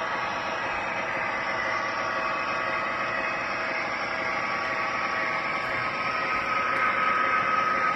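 Model train running on a hi-rail layout: a steady whirring hiss of motor and wheels on track with a faint whine, growing louder over the last couple of seconds.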